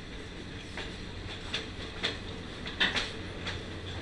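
Passenger railroad car rolling along the track, heard from its open vestibule door: a steady rumble of wheels on rail with irregular sharp clacks as the wheels pass over rail joints, the loudest about three-quarters of the way through.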